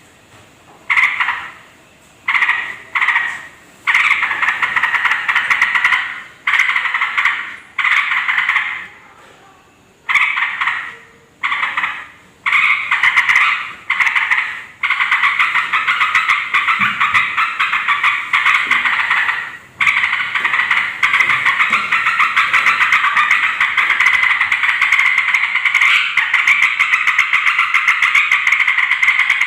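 Yellow-vented bulbuls (trucukan) chattering noisily in fast runs of harsh notes, first in separate bursts of a second or two with short gaps, then without a break through the second half.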